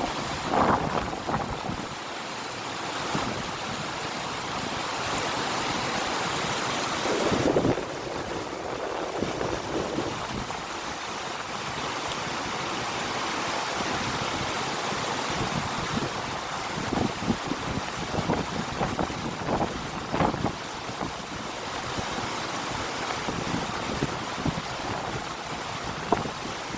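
River water rushing steadily, with wind blowing on the microphone and brief louder surges now and then.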